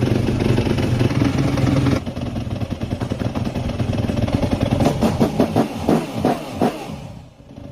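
Motorcycle engine running just after starting on its freshly cleaned Keihin FCR carburettor, a sign the hard-starting fault is cured. It runs high and steady, drops about two seconds in, then takes several quick throttle blips near the end before settling lower.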